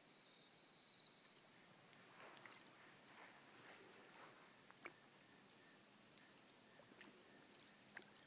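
A steady, high-pitched chorus of insects, continuous and unbroken, with a few faint ticks over it.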